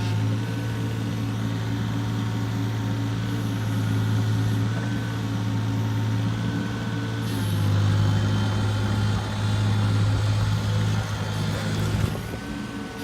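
Hitachi ZX22 mini excavator's diesel engine running steadily, with a deep hum and a thin higher whine over it. It grows a little louder about seven and a half seconds in.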